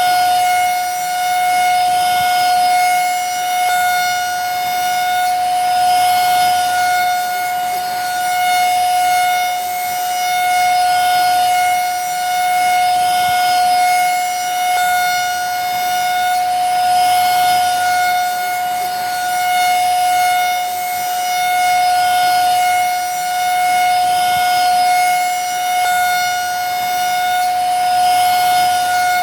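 Vacuum cleaner motor running steadily: an even, high whine over a rush of air, swelling and easing slightly about every two seconds.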